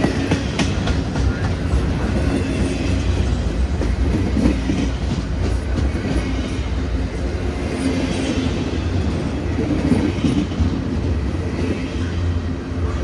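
Empty intermodal well cars of a CN freight train rolling past close by: a steady low rumble of wheels on rail, with clicking as the wheels cross rail joints.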